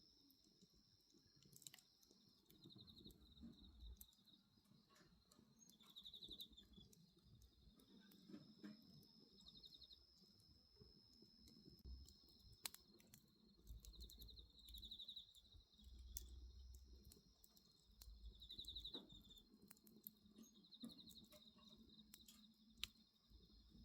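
Faint bonfire crackling, with scattered sharp pops and a low rumble. Over it, insects chirp in short pulsed trills every few seconds above a steady high insect tone.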